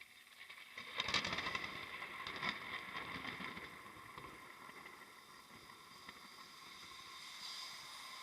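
Thunder: a sudden crack about a second in, then crackling rumble for a couple of seconds that fades into a steady hiss.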